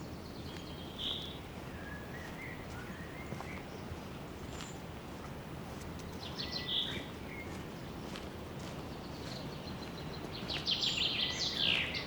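Songbirds singing in a forest: short high phrases about a second in and again past the middle, and a longer run of quick notes near the end, the loudest part, over a steady low background hiss.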